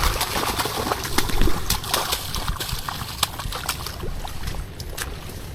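Water sloshing and splashing as someone wades through shallow floodwater, with irregular clicks and knocks throughout.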